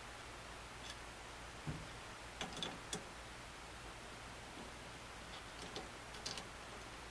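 Faint, scattered clicks and light taps in two short clusters, with a soft thump about a second and a half in, over a steady low hum.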